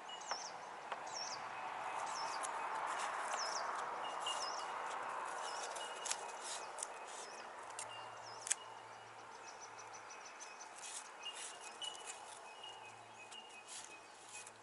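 Birds calling outdoors: a short curved whistle repeated about once a second, and a fast trill of ticks near the middle. A soft rushing sound swells and fades over the first half, with a few light clicks and taps scattered through.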